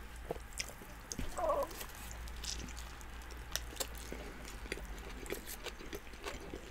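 Close-miked chewing and wet mouth smacks of people eating doner wraps and fries, a string of short irregular clicks, with a brief hum-like voiced sound about one and a half seconds in.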